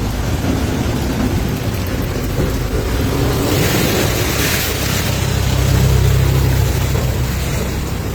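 Heavy rain pouring down, with a deep rumble that builds about halfway through and eases near the end.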